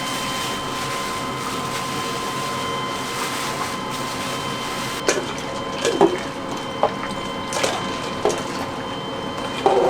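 Steady kitchen machinery hum. In the second half, a few separate sharp knocks and clacks, like utensils or food being handled.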